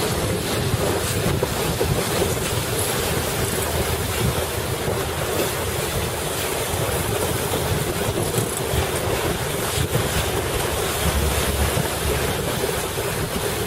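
Strong wind buffeting the microphone over waves and water rushing and splashing around a boat, in heavy wind.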